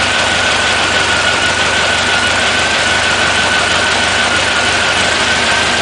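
A 1914cc VW-based air-cooled flat-four dune buggy engine running steadily on a dyno at an even speed, with a steady high whine over the engine noise.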